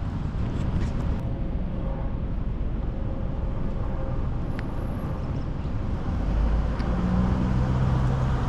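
Car driving: a steady low rumble of engine and road noise, with the engine hum growing louder about six and a half seconds in.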